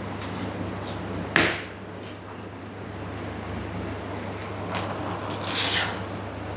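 Close-miked eating sounds: chewing and handling of dal, rice and mushroom curry, with one sharp click about a second and a half in and a louder rustling swell near the end, over a steady low hum.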